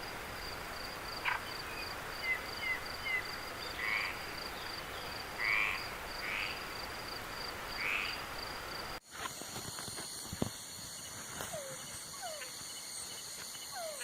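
Night chorus of frogs and insects: a steady pulsing insect trill with frogs calling every second or so. About nine seconds in it cuts abruptly to another night recording, where several insects trill at different high pitches and short falling calls repeat.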